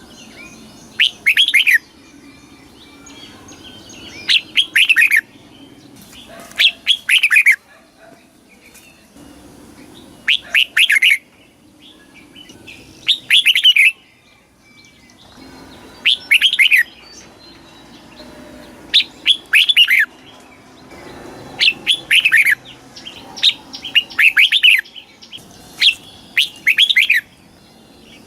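Red-whiskered bulbul singing: short, clear whistled phrases of quick up-and-down notes, repeated about every two to three seconds.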